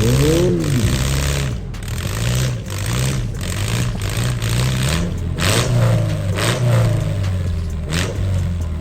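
Demolition derby cars' engines revving in repeated rising and falling surges as the two cars, locked together after a hit, try to pull free, with a couple of sharp bangs in the second half.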